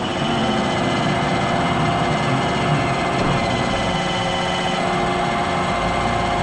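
iRobot Roomba robot vacuum running: a steady motor hum with a thin, constant high whine.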